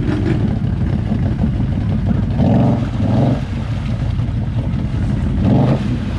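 ATV engine running steadily. It is revved in two quick surges about two and a half to three seconds in, and once more near the end.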